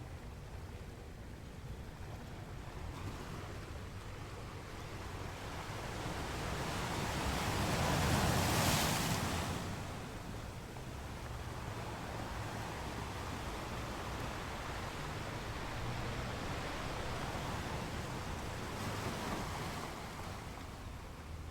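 Ocean waves on a shore: one wave swells and breaks loudest about eight seconds in, then the surf washes on steadily, with a smaller surge near the end.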